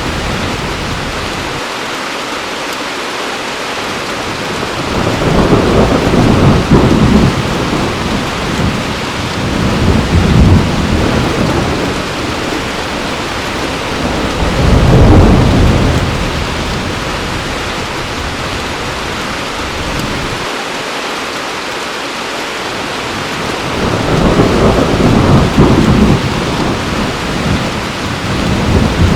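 Heavy rain falling steadily, with thunder rumbling about four times, each low rumble swelling and fading away.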